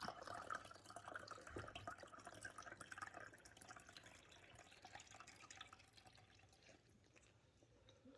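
Near silence: faint room tone with a few soft ticks and a light hiss that die away after about five seconds.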